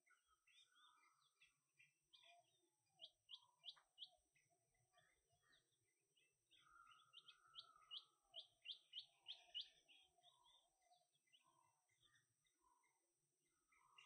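Faint birdsong from more than one bird: quick runs of short high chirps, a few around three seconds in and a longer run of seven or eight around eight seconds in, over scattered lower warbling notes.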